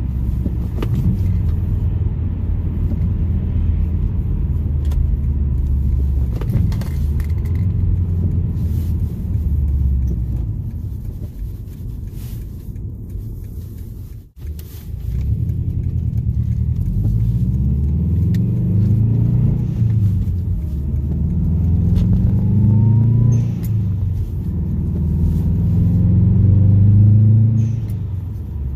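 2007 Subaru Legacy GT spec.B's turbocharged 2.5-litre flat-four, fitted with an HKS blow-off valve, heard from inside the cabin while driving. It runs at a steady low rumble at first, and in the second half its pitch climbs and drops several times as the car accelerates through the gears.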